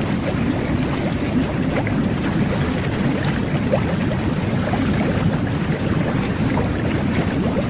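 Jet bath running: water jets churning and bubbling the bathwater in a steady, dense low gurgle with small popping bubbles.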